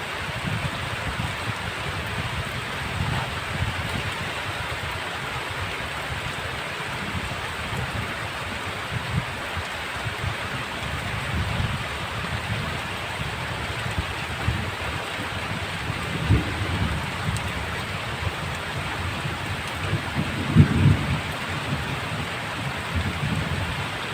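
Heavy rain falling in a steady hiss, with low rumbles of thunder underneath that swell up twice in the second half.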